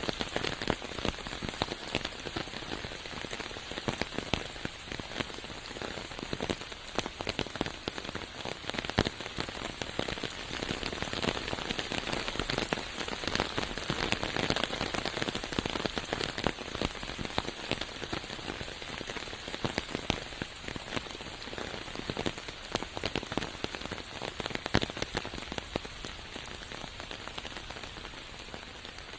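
Steady rain falling, with countless individual drops heard as fine, dense ticks over a constant hiss.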